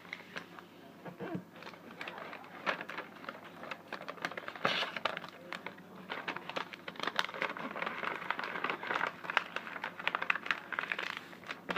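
Crinkling and rustling of thin kite sheet material being handled and worked, with many irregular small clicks and taps.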